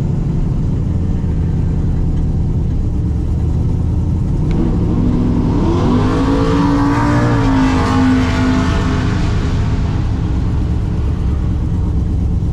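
Turbocharged V8 truck engine idling steadily. About five seconds in, a second vehicle's engine swells up, rising in pitch and then holding, and it fades out by about ten seconds.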